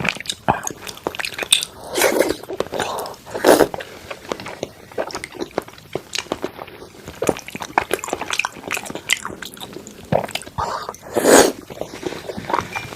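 Close-miked chewing and mouth sounds of someone eating thick-cut salmon: a dense run of small clicks, with a few louder, longer bursts about two, three and a half, and eleven seconds in.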